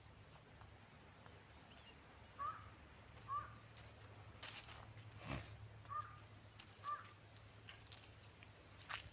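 A bird calling in forest: two pairs of short, hooked calls, the pairs a few seconds apart, with a few sharp crackles between them.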